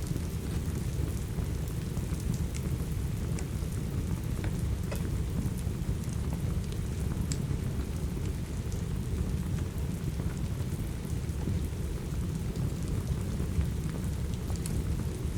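Steady rain with a deep, even low rumble, and the scattered sharp pops and crackles of a wood fire burning in a fireplace.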